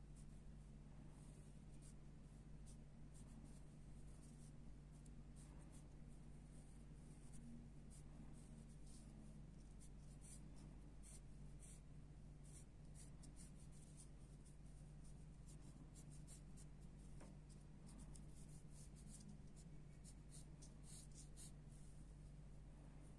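Faint pencil sketching on paper: many short, scratchy strokes, coming thicker near the end, over a steady low hum.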